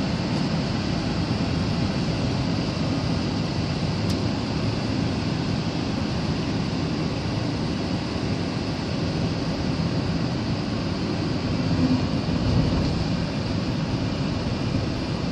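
Storm wind blowing hard, a steady rushing noise heaviest in the low end, swelling slightly in a gust about twelve seconds in.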